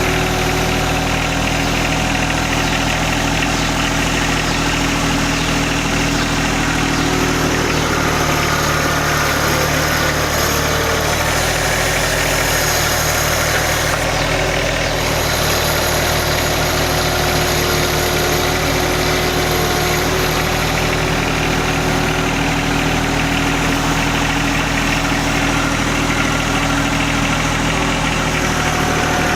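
John Deere 1025R sub-compact tractor's three-cylinder diesel engine running steadily as the tractor turns a compost pile, its pitch shifting a little between about 8 and 15 seconds in.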